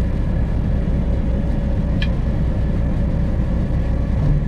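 Diesel engine of a Freightliner Classic XL semi truck running steadily at low speed, heard from inside the cab as a steady low rumble. A single short click sounds about two seconds in.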